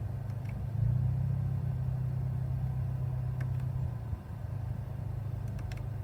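Hyundai i20N's 1.6-litre turbo engine idling, heard from inside the cabin: the low exhaust drone steps up louder about a second in and drops back about four seconds in, as the drive mode is switched into and out of sport mode, which gives a louder exhaust note. A few faint clicks.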